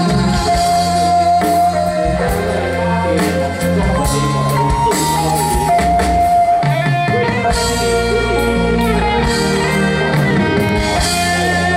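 Live band playing an instrumental break in a Hokkien pop song: a held lead melody over bass and a steady drum beat, with no singing.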